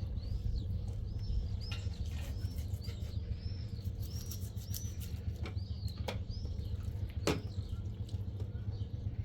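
A small bird chirping: a quick run of short, high, arched calls, a couple each second, with a few sharp downward-sweeping notes, over a steady low rumble.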